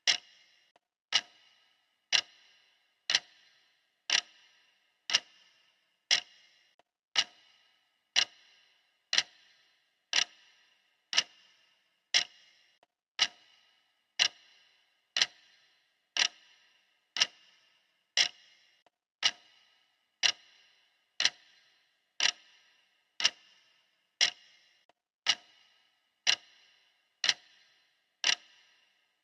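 Clock ticking steadily and evenly, one sharp tick about every second.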